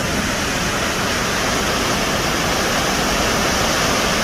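Loud, steady rush of white water from a river waterfall running high with spring water.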